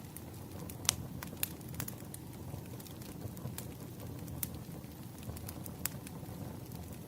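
Wood fire burning: a steady low rumble of flames with irregular sharp crackles and pops of the burning logs.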